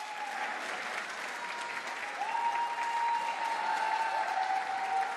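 Audience applauding, with background music holding long high notes that shift pitch a couple of times.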